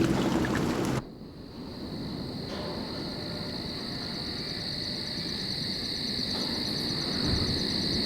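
Music cuts off abruptly about a second in, leaving a steady high-pitched animal chorus with a faint rapid pulsing and a low rumble underneath.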